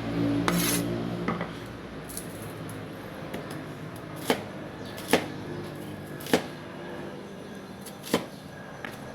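Kitchen utensils knocking sharply on a hard surface, four separate knocks a second or more apart, in the manner of chopping or tapping during food preparation. A low steady tone runs through the first second or so.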